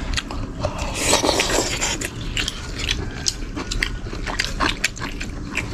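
Eating sounds: many small sharp clicks of chopsticks and spoons against bowls as people eat flat noodle pieces, with a denser scraping, slurping stretch about a second in.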